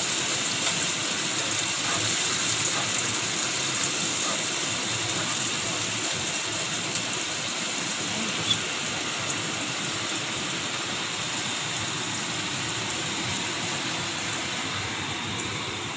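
Tomato puree and oil sizzling steadily in a wok as it is stirred with a spatula, with a single sharp tap of the spatula about halfway through.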